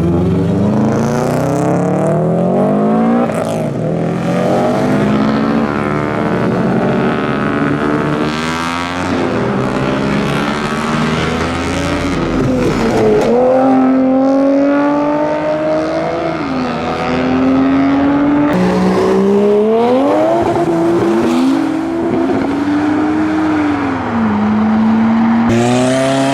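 Several modified cars accelerating away one after another, their engines revving up through the gears in repeated rising sweeps.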